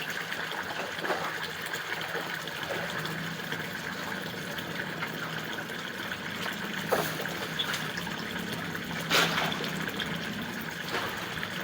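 Steady trickling, running-water noise over a low, even hum, with two sharp knocks about seven and nine seconds in.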